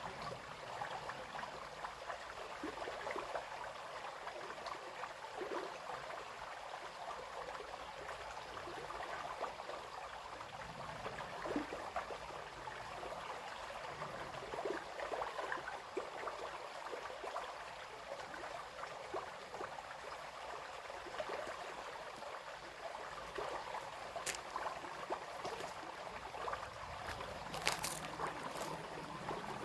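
Small brook babbling and trickling steadily over stones, with a few brief sharp clicks near the end.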